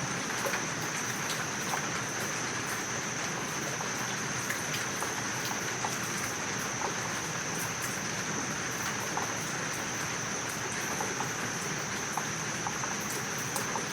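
Steady rain falling, with scattered individual drops ticking, under a continuous high-pitched insect trill.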